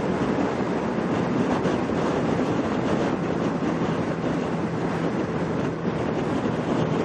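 Kawasaki Ninja 650R's parallel-twin engine running steadily at highway speed under a dense rush of wind and road noise.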